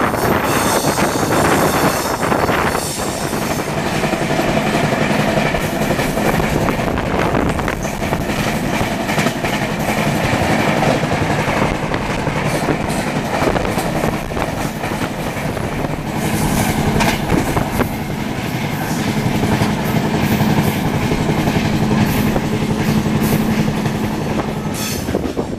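Passenger express train running at speed, with wheels clattering on the rails over a steady running rumble. A low steady drone grows stronger in the second half.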